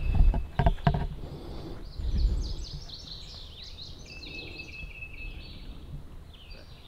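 Birds singing in repeated quick falling chirps, with a high steady trill about four seconds in. A low rumble is loudest in the first couple of seconds.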